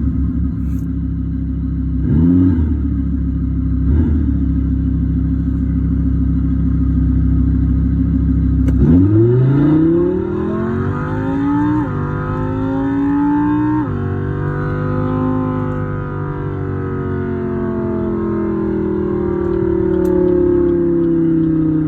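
Artificial combustion-engine sound from a BYD Dolphin electric car: a steady idle with two short blips of revs, then, about halfway through, the pitch climbs as if accelerating, drops sharply twice like gear changes, and slowly rises and falls.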